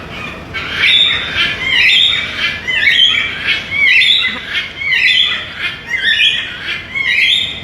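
Indian ringneck parakeet vocalizing in a string of loud, high-pitched calls and phrases, one after another with short gaps.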